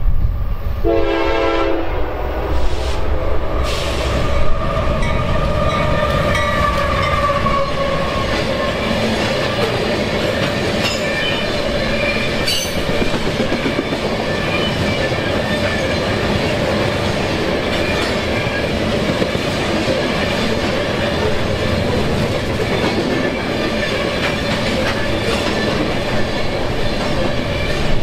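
A train passing close by: a short horn blast about a second in, then the steady rumble and clatter of the wheels over the rails, with a thin wheel squeal that slowly slides down in pitch.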